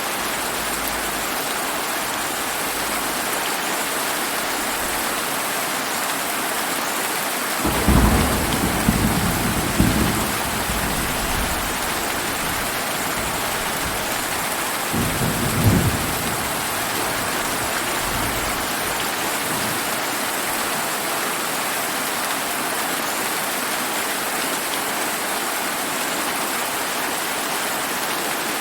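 Steady rain falling, with a thunder rumble that breaks in sharply about eight seconds in and rolls on in several peaks for about two seconds, then a shorter rumble around fifteen seconds.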